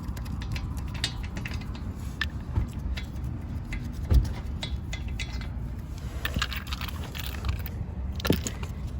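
Lug nuts being taken off a car wheel: scattered metal clicks and ratcheting, with a heavier knock about four seconds in and another near the end.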